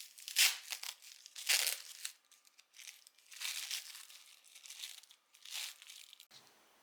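Crinkling and tearing sounds in a series of short, sharp rustles, as of something being handled and torn during food preparation.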